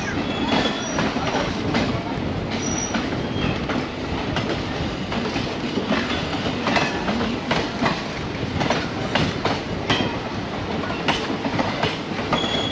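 Passenger train running, heard from beside an open coach window: a steady rumble with irregular clacks of the wheels over rail joints and points, and a few brief high wheel squeaks.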